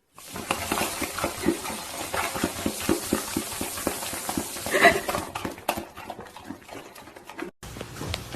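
A rapid, irregular run of light taps and clicks, with one louder, sharper sound about five seconds in.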